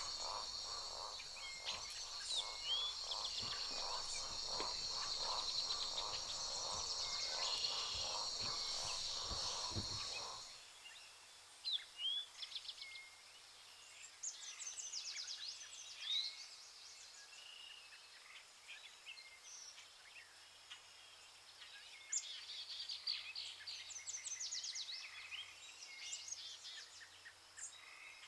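Rainforest ambience: a steady high insect drone with a pulsing lower buzz, which cuts off abruptly about ten seconds in. Quieter scattered bird chirps and whistles follow.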